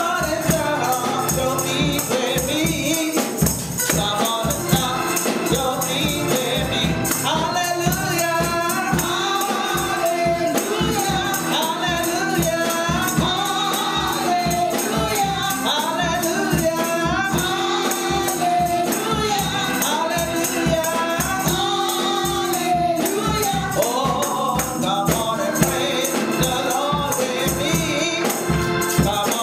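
Gospel music with choir singing over a band, a tambourine keeping a steady, fast beat.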